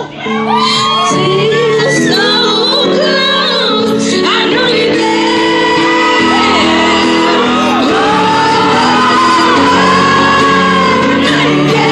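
Live pop ballad in a concert hall: a female lead vocal over sustained chords from the band. Fans close by are shouting and whooping over it.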